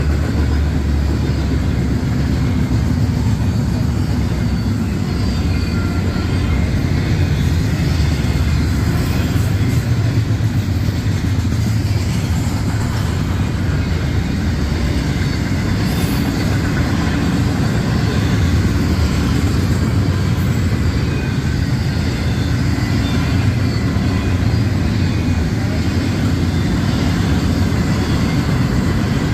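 Double-stack intermodal freight train's loaded well cars rolling past: a steady rumble of steel wheels on rail.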